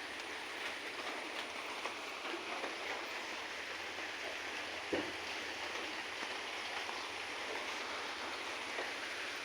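Steady rain falling and pattering on surfaces, with one short dull knock about halfway through.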